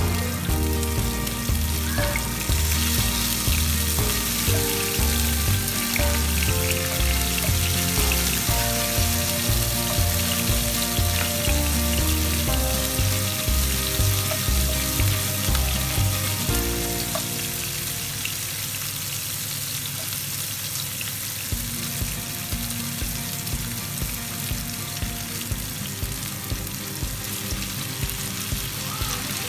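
Garlic and onion sizzling steadily in hot oil in a nonstick wok, stirred now and then with a wooden spatula. Background music with a steady beat plays over it.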